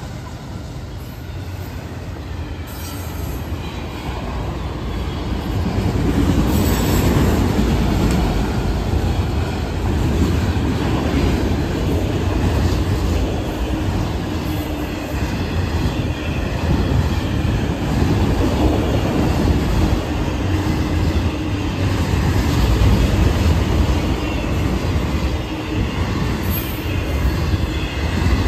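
Freight train rolling past at close range: a steady rumble of steel wheels on rails from a long string of autorack cars, growing louder in the first six seconds and then holding.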